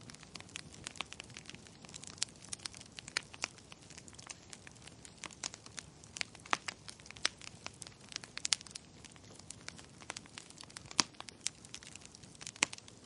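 Wood fire crackling in a fireplace: irregular sharp pops and snaps, a few much louder than the rest, over a steady soft hiss.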